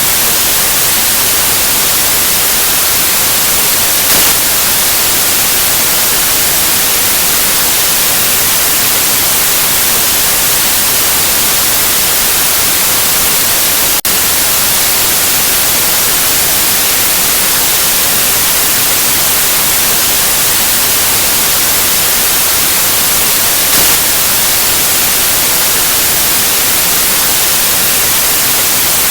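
Steady electronic white noise: an even, unchanging hiss, strongest in the high frequencies, with a brief tiny dropout about halfway through.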